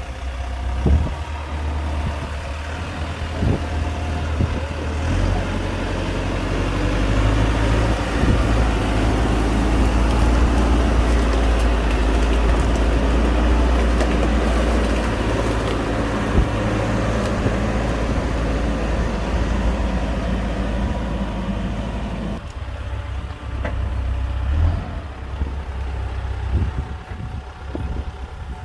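Heavy construction machine's diesel engine working under load. The engine note strengthens about five seconds in, holds steady for a long stretch, then eases back near the end, with a few scattered knocks.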